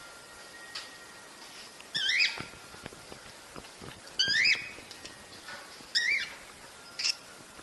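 Cockatiel calling: three loud chirping calls about two seconds apart, each sweeping up then down in pitch, and a shorter fourth call near the end.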